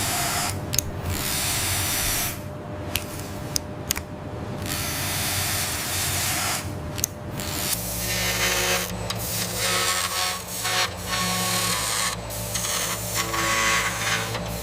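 A small machine or power tool running with a dense mechanical whirr, broken by several short pauses. Steady low tones sound beneath it from about halfway.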